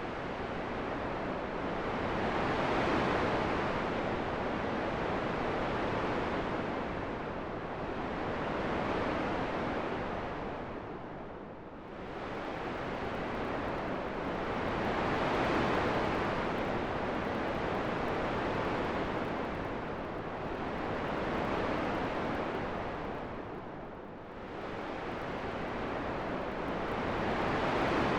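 Wind blowing in a steady rush that swells and fades in slow gusts every few seconds, with brief lulls twice along the way.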